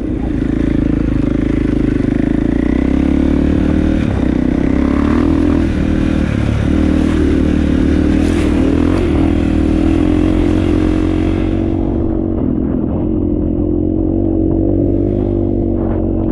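KTM dirt bike engine running steadily with little change in pitch. A hiss over it stops suddenly about three-quarters of the way through.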